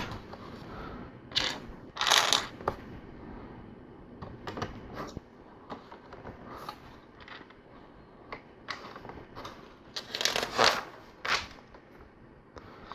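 LEGO pieces being handled: small plastic bricks clicking, rattling and being pressed together in scattered short bursts, with a busier cluster of clicks about ten seconds in.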